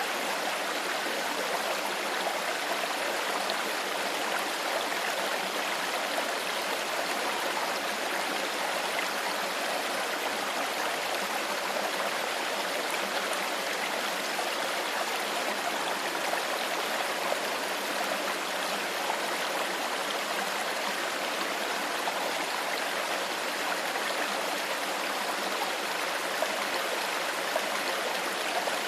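Clear stream flowing, a steady rushing and gurgling of water.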